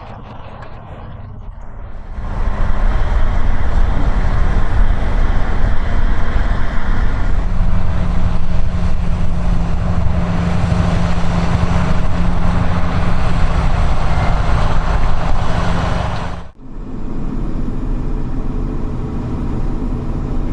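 Heavy snow-clearing machine running: a loud, steady engine drone under a dense rushing noise. It cuts off sharply about sixteen seconds in and gives way to another, slightly quieter engine.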